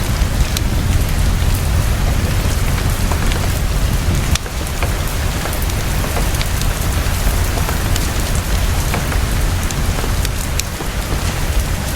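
Heavy rain falling fast and steady, with a deep rumble underneath, mixed with the scattered sharp crackles of a fireplace. The sound dips briefly about four seconds in.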